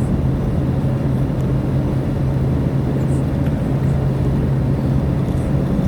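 Car engine running steadily at cruising pace, with a constant low hum and tyre and road noise, heard from inside the cabin.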